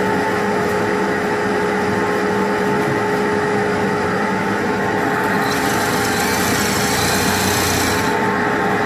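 Vacuum running steadily after being switched on, a steady motor whine over a loud rush of air; the hiss grows brighter about five and a half seconds in and dips briefly near the end.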